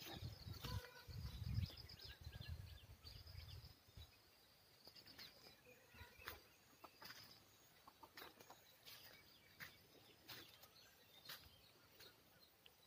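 Faint birds calling: repeated high chirps and trills. A low rumble on the microphone for the first few seconds, and scattered soft clicks.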